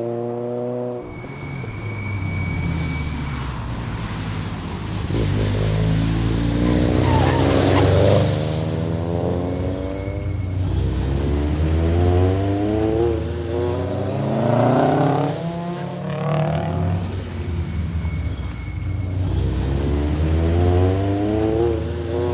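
Subaru BRZ's flat-four boxer engine accelerating hard through the gears: the pitch climbs, drops back at each gear change and climbs again, several times over, above a steady low road rumble.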